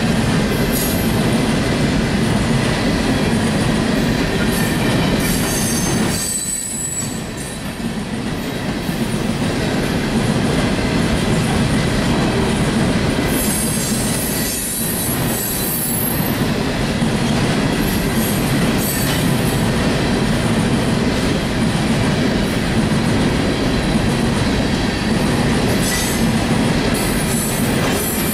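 A train rolling past close by: a steady rumble and rattle of wheels on the rails, with occasional wheel squeal. The sound eases briefly twice, about six seconds in and again around fourteen seconds.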